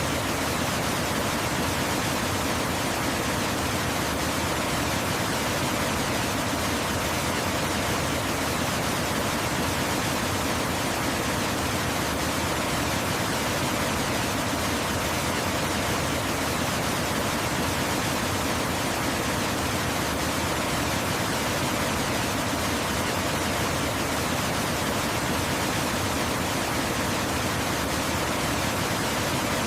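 Waterfall flowing: a steady, unchanging rush of falling water.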